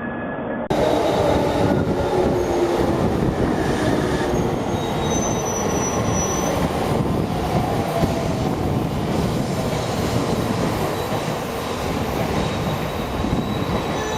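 Shinkansen bullet train running: a steady loud rush of wheel and rail noise with a faint high whine, jumping louder and fuller just under a second in.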